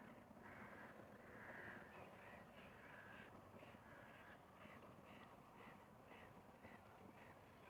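Faint, distant bird calls: a few drawn-out calls, then a steady series of short, repeated calls about two a second, over a low, quiet lakeside background.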